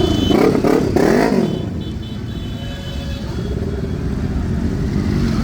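Motorcycle engines revving, their pitch rising and falling over the first second or so, then settling into steady running.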